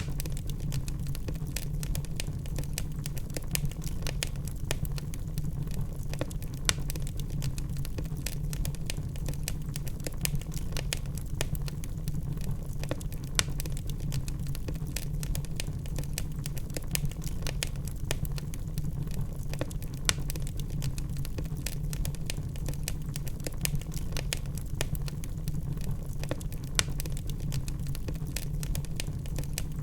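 Wood logs burning in a fireplace: a dense, steady crackle of small snaps over a low rumble of the fire, with a few louder pops several seconds apart.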